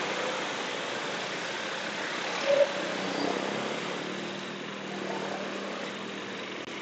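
Motorcycle ride through traffic: steady road and engine noise with a low, even engine hum, and one brief louder tone about two and a half seconds in.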